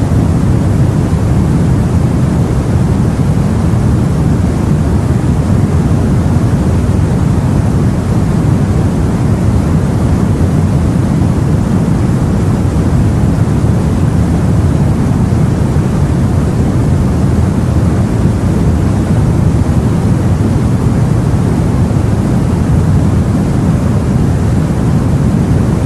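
Steady, low, even noise of the sea around a boat, with no separate wave breaks or changes.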